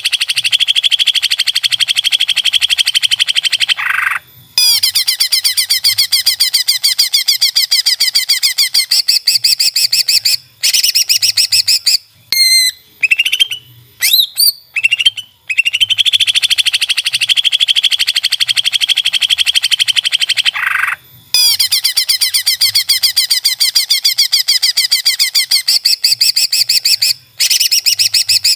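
Green leafbird (cucak ijo) song: long, very fast rattling trills of several seconds each, separated by short breaks, with a run of short whistled notes in the middle. The same sequence comes round twice, as in a looped training recording.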